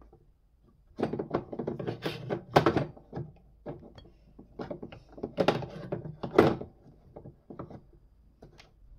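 Metal portafilter knocking and clanking against an espresso machine's group head as it is pushed and twisted without locking in. It comes as a busy run of knocks and scrapes, with two louder clunks, one about two and a half seconds in and one past the middle.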